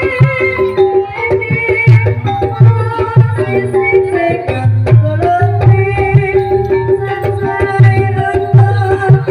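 Banyumasan gending ebeg gamelan music: kendang hand-drum strokes in a steady rhythm under a melody of held, ringing pitched notes.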